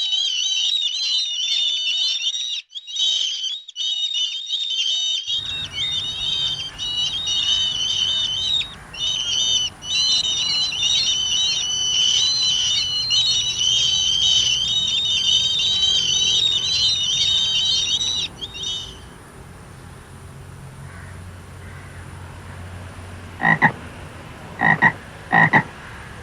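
A dense chorus of frogs calling in rapid, high-pitched trills, with a cut about five seconds in; the chorus stops about two-thirds of the way through. Near the end a goose honks three times.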